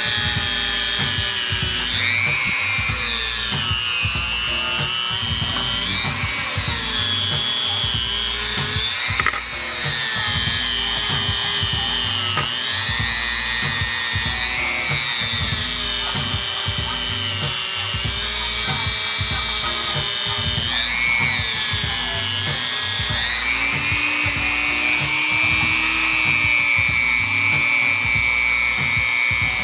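Dremel rotary tool with a wire wheel scrubbing carbon deposits off a cylinder head, its high whine dipping and rising in pitch every few seconds as the wheel loads up against the metal and frees again.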